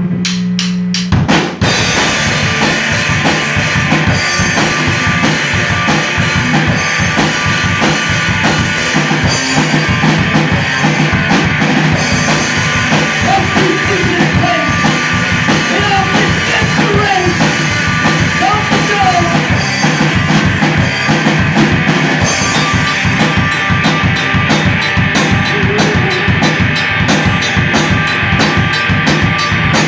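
Live rock band starting a song after a count-in, the drum kit loud with a steady bass drum and snare beat under the other instruments. The full band comes in about a second in.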